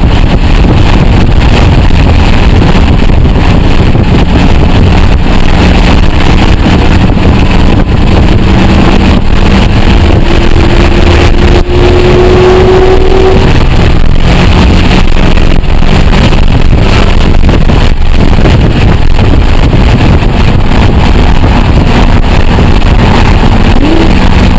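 Roush 427R Mustang's supercharged V8 at speed on track, heard loud from inside the cabin over heavy road noise. Several seconds in, the engine note climbs steadily under acceleration, then drops away about halfway through.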